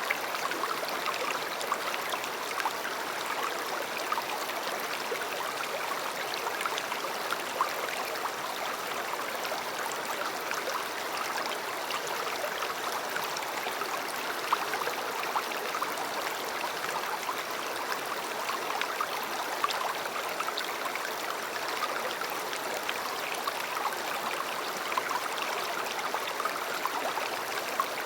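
A river's running water: a steady rush of flowing water with small splashes and gurgles flickering through it.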